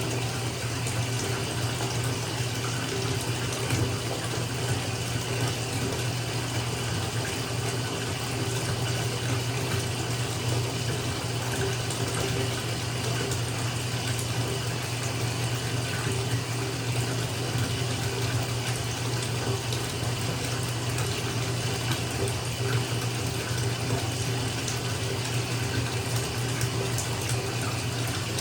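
Bathtub filling from its tap: a steady rush of running water splashing into the tub, with no change in level.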